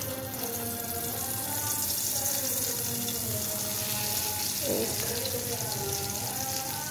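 Shami kabab patty frying in shallow hot oil in an aluminium pan, sizzling steadily; the sizzle grows a little louder about a second in.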